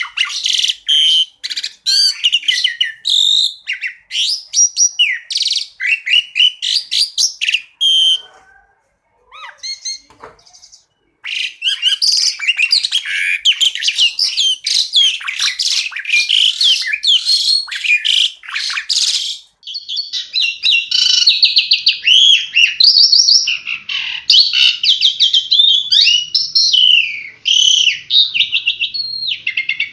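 Asian pied starling (jalak suren) singing: rapid chirps and sliding whistled phrases, with a pause of about three seconds about eight seconds in, then a dense run of fast notes and more varied whistles.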